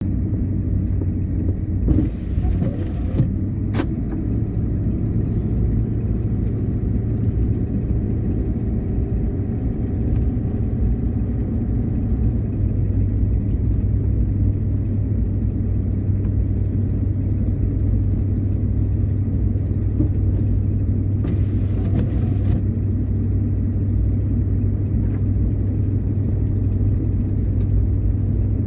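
Car driving through snow, heard from inside the cabin: a steady low drone of engine and road noise. A short hiss comes twice, once early and once past the middle, with a single click soon after the first.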